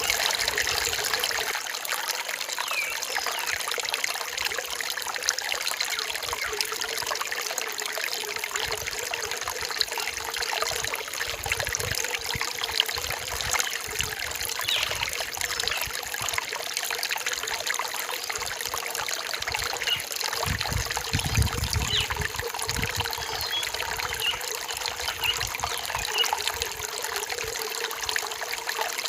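A forest stream trickling and babbling steadily over rocks, with small bird chirps faintly above it and a brief low rumble about two-thirds of the way through.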